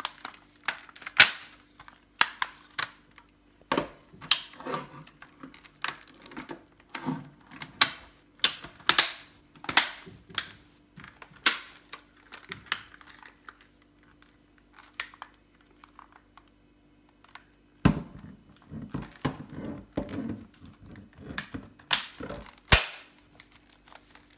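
Irregular sharp plastic clicks and snaps as the two halves of a Samsung refrigerator's French-door divider flap are handled and clipped back together, with a lull of a few seconds past the middle.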